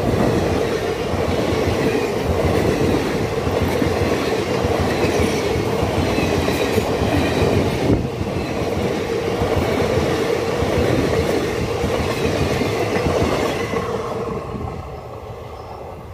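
Passenger coaches of an Indian Railways express train rolling past at speed close by, wheels clattering on the rails; the sound fades as the last coach goes by near the end.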